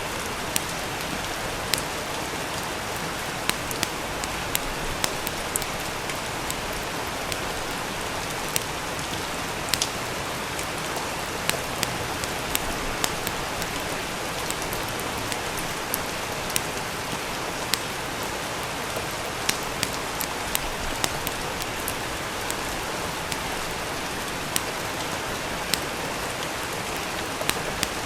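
Steady rain, an even hiss, with scattered sharp pops and crackles from a wood fire coming at irregular moments.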